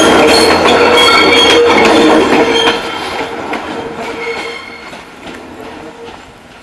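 EMEPA Alerce diesel railcar passing close by, its wheels squealing on the rails and clicking over the track. About three seconds in the sound drops sharply and then keeps fading.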